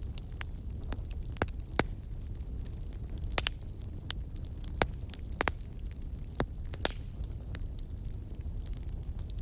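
Wood campfire crackling: irregular sharp snaps and pops over a low steady rumble.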